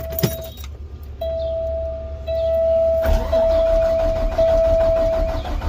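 Garbage truck's dashboard warning buzzer sounding in long beeps of about a second each after the key is turned on; about three seconds in the engine starts and settles into a low idle under the beeps.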